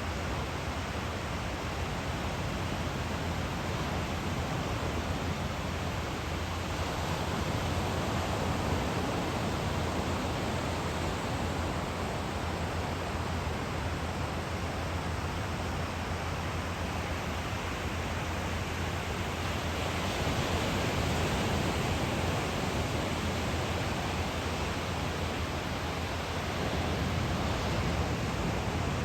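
Steady noise of ocean surf breaking at the shore, swelling a little louder now and then.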